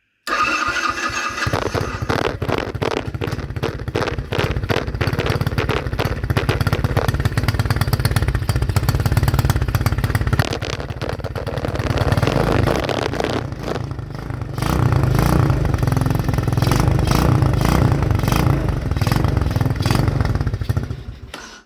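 Taotao 125cc quad's small single-cylinder four-stroke engine running through an aftermarket slip-on muffler, with a fast, even exhaust pulse. It is revved up a couple of times, loudest in the second half, and cuts off abruptly near the end.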